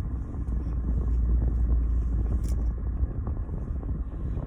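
Steady low rumble inside a car, with one sharp click about two and a half seconds in.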